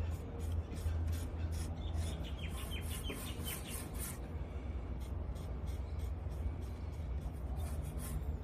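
Repeated rubbing strokes on a lacquered solid-wood tabletop, as the surface is wiped and worked by hand, with a brief run of faint high chirps about three seconds in.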